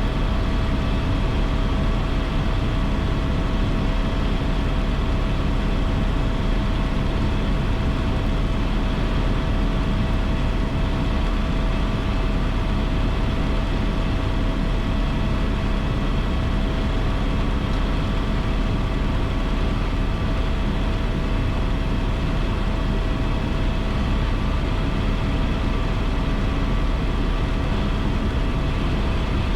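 AS355 Twin Squirrel helicopter heard in the cabin in flight: a steady drone of rotor and turbines with several constant whining tones over it, unchanging throughout.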